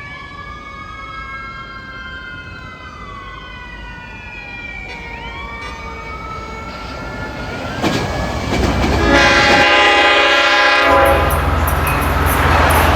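Long Island Rail Road M-3 electric train approaching: whining tones gliding up and down grow louder, then the horn sounds one blast of about two seconds, followed by the loud rumble of the 12-car set passing at speed through the station.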